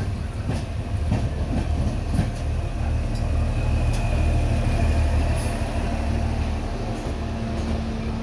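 Passenger train running slowly on the track, heard from aboard a coach: a steady low rumble with sharp clicks of the wheels over rail joints in the first couple of seconds. A faint high wheel squeal comes and goes around the middle, and a steady hum sets in during the second half.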